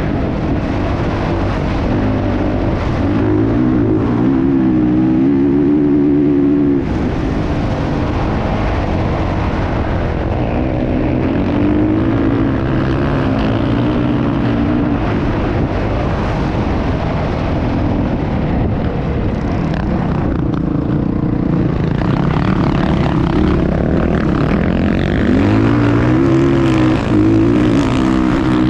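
Motocross dirt bike engine running hard, its pitch rising and falling again and again as the throttle is worked.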